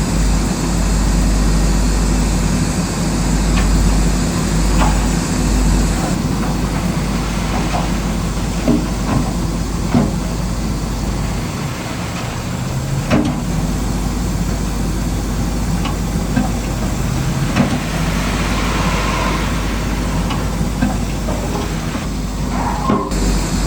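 Bulldozer running steadily while it works rocks, with scattered short knocks and clatters over its low hum.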